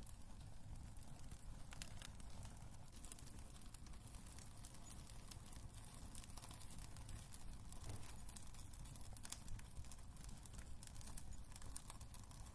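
Wood fire crackling in a fireplace: faint, irregular sharp crackles and snaps over a low steady rumble.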